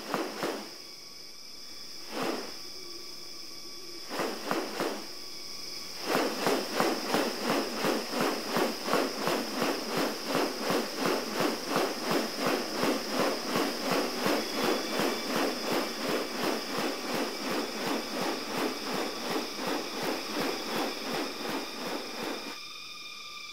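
Rainforest insects: a steady high-pitched drone, joined about six seconds in by a loud, rhythmic pulsing at about three pulses a second that stops shortly before the end.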